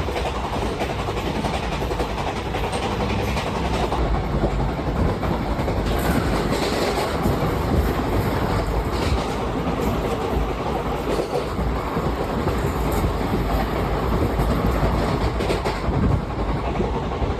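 Passenger express train running along the line: a steady loud rumble of the coaches, with the wheels knocking over rail joints now and then.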